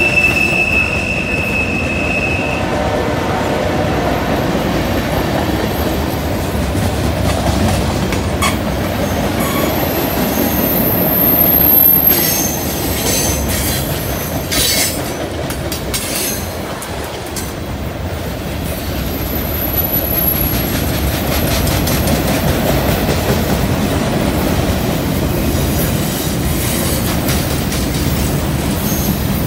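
Long freight train rolling past on a curve: a steady rumble of steel wheels on rail with clatter and clicks from the cars. High-pitched flange squeal from the wheels on the curve comes and goes, strongest about ten to twelve seconds in and again about twenty seconds in.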